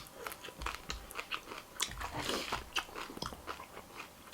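Close-miked crunchy chewing of a mouthful of food, with many short crunches and clicks in quick, irregular succession.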